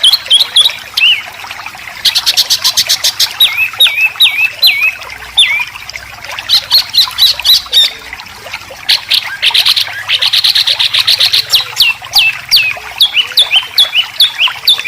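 Songbird song made of harsh, rapid 'besetan' trills and runs of sharp down-slurred whistled notes. Dense fast trills come about two seconds in and again near the middle, and a steady series of repeated down-slurred notes runs near the end.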